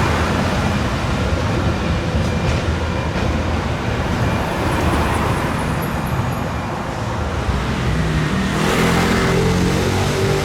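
Steady street and vehicle noise, a rumble and hiss of passing traffic. About eight and a half seconds in, a steady pitched hum of several tones joins it.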